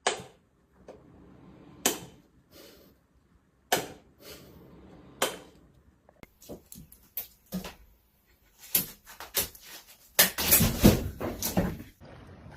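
A series of sharp knocks and clatters, a couple of seconds apart at first, then coming thick and loudest near the end.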